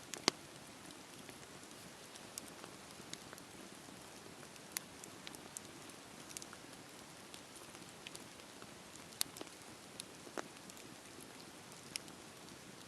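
Campfire burning with a low steady hiss and irregular sharp crackles and pops of the wood, about one a second, the loudest early on and a little after the middle.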